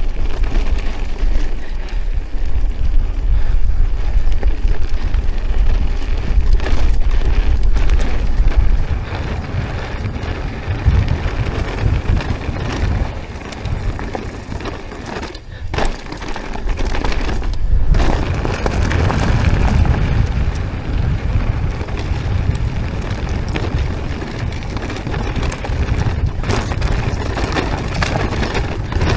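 Mountain bike descending a rough trail: tyres rolling over dirt and stones with rattling from the bike, under heavy wind rumble on the camera microphone. The noise eases for a stretch in the middle and drops out briefly twice.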